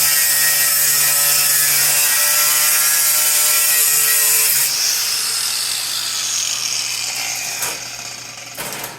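Angle grinder with an abrasive cut-off wheel running and cutting sheet steel: a steady whine over a loud grinding hiss. About five seconds in it is switched off and winds down, fading out.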